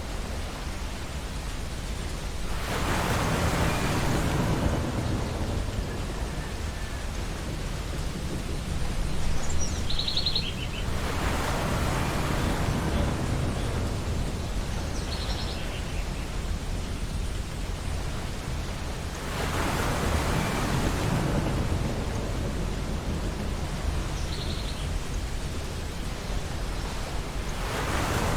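Ocean surf on a beach: waves break in slow surges about every eight seconds, each rising and then washing back out over a constant rushing bed. A few short, high bird calls sound three times, about ten, fifteen and twenty-five seconds in.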